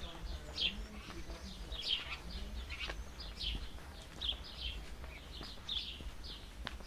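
Small birds chirping over and over, short high falling notes about once or twice a second, over a low steady rumble.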